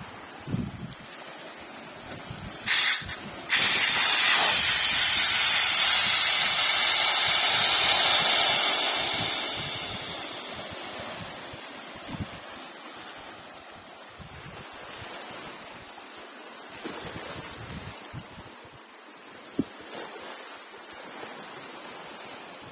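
A sea wave breaking, with a loud hiss of rushing foam that starts suddenly and fades over several seconds.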